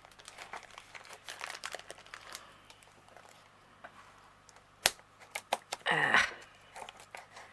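Unpadded plastic mailer bag crinkling and crackling in short bursts of small clicks as it is worked open, with one sharp snap about five seconds in.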